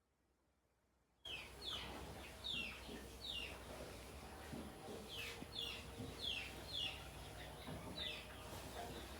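A bird chirping: a run of short chirps, each dropping in pitch, starting about a second in and repeating irregularly over steady background noise.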